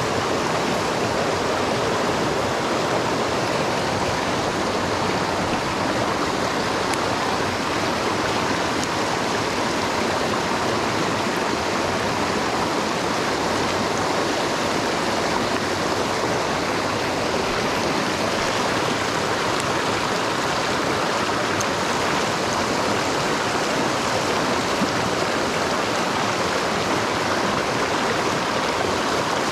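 Mountain stream rushing steadily over rocks, an even, unbroken rush of water.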